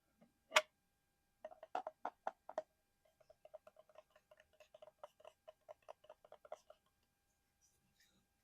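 Fingertips or nails tapping on a small hard object: one sharp click, then a handful of louder taps, then a run of quick light taps at about five a second, stopping near the end.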